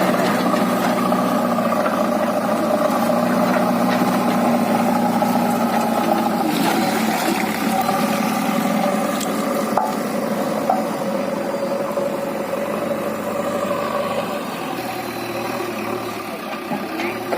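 Diesel engine of a backhoe loader running steadily, its pitch and level shifting slightly with the work. Two short knocks come about halfway through.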